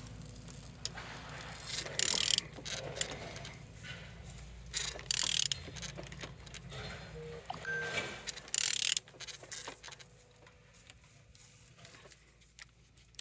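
A removed Renault F9Q diesel engine being turned over by hand with a wrench or ratchet, giving bursts of ratchet clicks and mechanical scraping, three main bursts, then quieter from about ten seconds in. It turns freely, which the seller calls running good.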